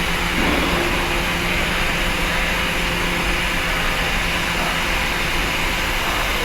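Steady engine and machinery drone with a faint underlying hum, unchanging throughout, with no distinct knocks or revs.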